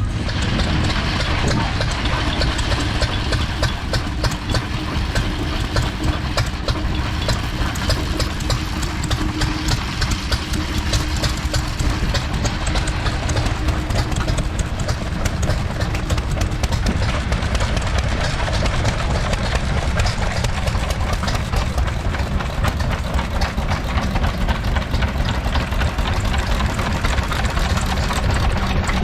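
Vintage stationary engine running steadily at idle, with a fast, even beat of firing strokes.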